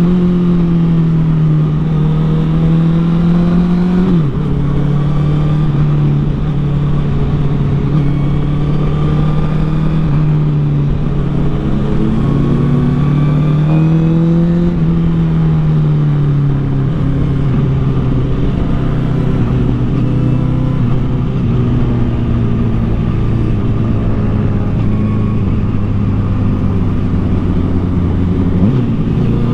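A 2013 Honda CBR1000RR Fireblade's inline-four engine running through a Taylormade aftermarket exhaust while riding, its note rising and falling with the throttle. There are sudden drops in pitch about four seconds in and again near the end. Steady rush of wind noise underneath.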